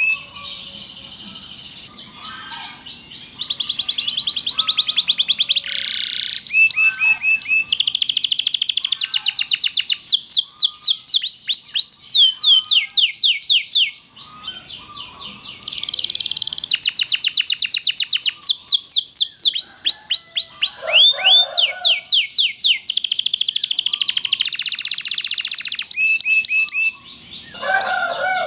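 Domestic canary singing a long, continuous song of rapid rolling trills: phrase after phrase of fast, high repeated notes, with brief quieter passages between them.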